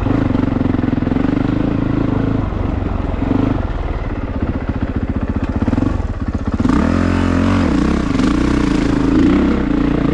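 Honda CRF450RX dirt bike's single-cylinder four-stroke engine running under way on a trail, dropping to a low, pulsing chug through the middle, then revving up and down again about two-thirds of the way through.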